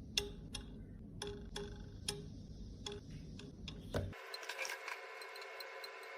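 Light, irregular clicks and taps of small hard objects, the kind made by handling makeup cases and repair tools, each click with a short low ring. About four seconds in, the sound cuts to a thinner, brighter texture with faint steady tones.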